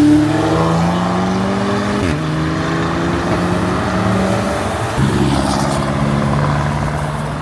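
A car accelerating hard through the gears: the engine note climbs, drops sharply at an upshift about two seconds in, climbs again and drops at a second upshift about five seconds in, then holds.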